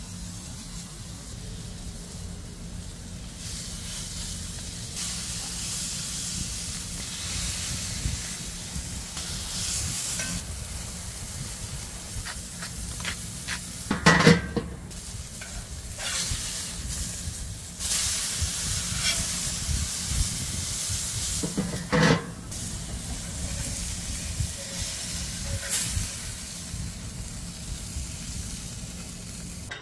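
Minced garlic and smashed burger patties sizzling steadily in a hot cast iron pan over lump charcoal. The hiss is broken twice by a short loud metallic clank, the first as the grill's domed lid is handled about halfway through, the second about eight seconds later.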